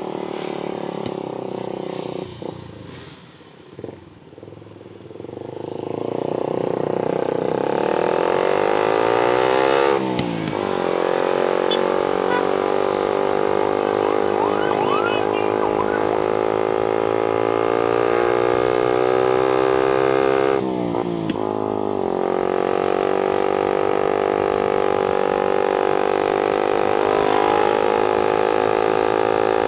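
Suzuki GSX-R150's single-cylinder engine heard from the saddle. It is quiet for a few seconds, then accelerates with its pitch climbing, drops sharply at an upshift about ten seconds in, climbs again, and drops at another upshift about twenty seconds in before holding steady at cruising speed.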